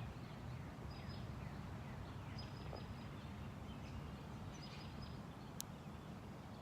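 Outdoor ambience: a steady low rumble with faint, high bird chirps about every second, and a single sharp click near the end.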